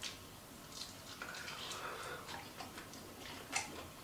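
Faint crunching and scattered clicks of a person chewing a crispy chicken wing with a bacon crust.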